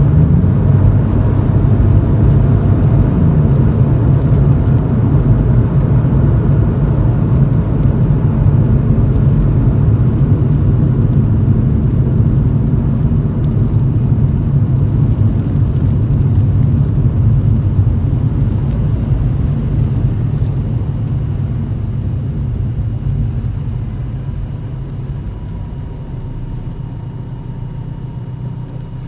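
Toyota Chaser GX100's 2.0 L straight-six exhaust through an aftermarket Reinhard bullet-style muffler with a mid-pipe silencer, heard from inside the cabin while driving at low speed: a steady low drone that eases off and gets quieter over the last several seconds.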